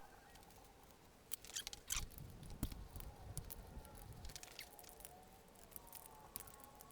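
Faint scattered clicks and rustles of hands and tools working at a motorcycle engine, mostly in the first half, otherwise near silence.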